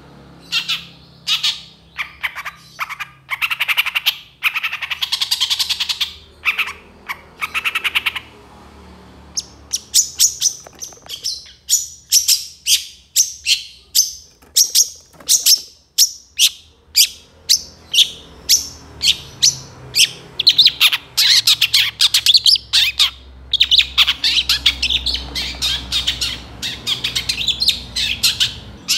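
Long-tailed shrike (cendet) singing energetically: fast runs of short, sharp, harsh notes and chatters, thinning out briefly in the middle before long rapid strings near the end.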